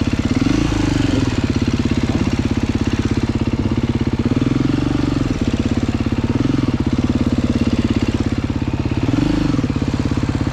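Off-road motorcycle engine idling with a steady, rapid firing pulse, the throttle blipped briefly three times, each blip rising and falling in pitch.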